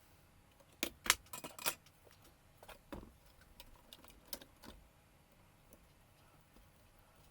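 Sharp clicks and clinks of small hard parts being handled: a quick cluster about a second in, then scattered lighter clicks until near five seconds.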